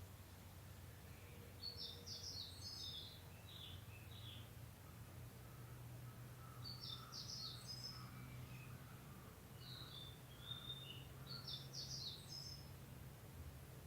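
A songbird sings a short, high, chattering phrase three times, about every five seconds, with softer notes in between. A faint, steady low rumble runs underneath.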